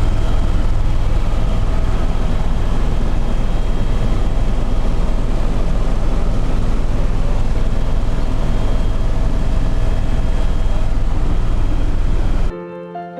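Helicopter in flight: a loud, steady engine-and-rotor noise with a deep hum underneath. It cuts off abruptly near the end, and soft piano music begins.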